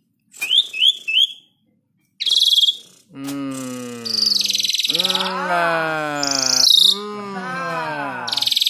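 Javan pied starling (jalak suren) in full song: three quick rising chirps, then a harsh buzzy note, then a run of long, gliding, mostly falling whistled notes broken by more harsh rasps.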